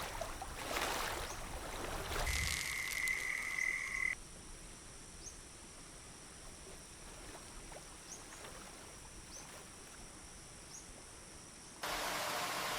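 Tropical forest ambience with frog calls. A steady high trill runs for a couple of seconds and stops abruptly. A quieter stretch follows with faint high chirps. Near the end the sound cuts sharply to a loud, even hiss.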